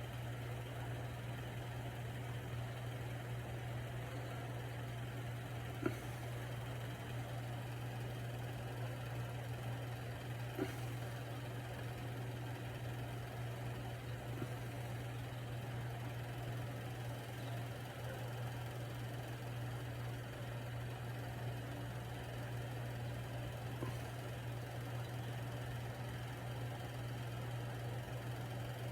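Steady low hum that does not change, with a few faint clicks.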